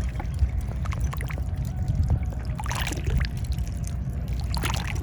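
Water splashing and trickling in irregular bursts over a steady low rumble, the two largest splashes about three seconds and five seconds in.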